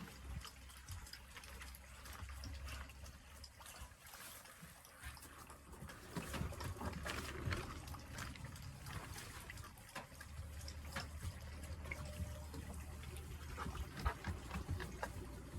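Water trickling and pouring, with light clicks and knocks of handling throughout.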